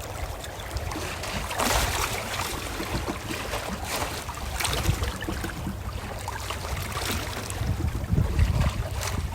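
Calm ocean waves washing in: a steady low rumble with a swell of surf hiss every few seconds.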